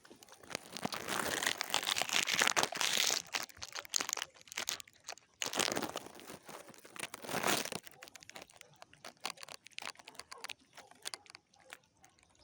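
Crinkling, rustling noise in two spells, the first about three and a half seconds long and the second about two, followed by scattered light clicks.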